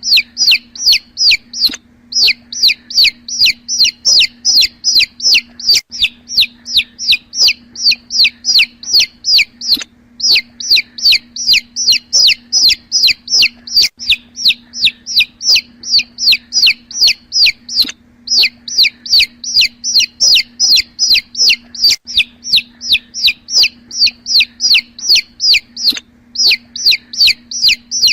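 Young chicks peeping in a fast, continuous run of short, high, falling chirps, several a second, over a faint steady low hum.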